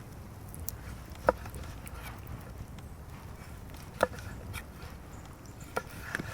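Sharp wooden knocks, four in all, spaced irregularly a second or more apart, the first the loudest, over a low steady rumble.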